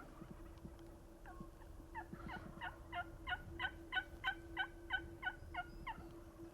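Turkey yelping: a run of about a dozen evenly spaced yelps, about three a second, that builds up and stops shortly before the end.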